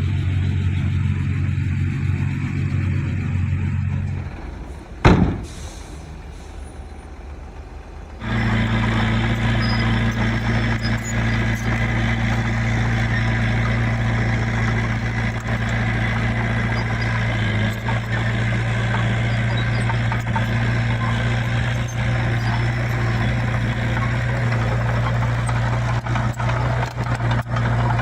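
Diesel engines of heavy earthmoving machinery running steadily. About five seconds in the engine sound drops away and there is a single sharp crack. Just after eight seconds a loud engine starts up again and runs on steadily.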